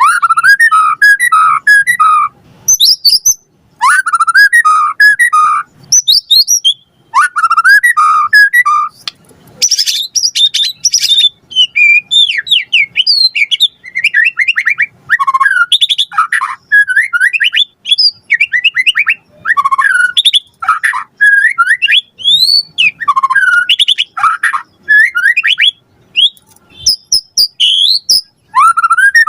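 White-rumped shama (murai batu) singing continuously at full volume: a varied run of loud whistled phrases, with repeated rising and falling notes, quick trills and high sweeps, broken by short pauses.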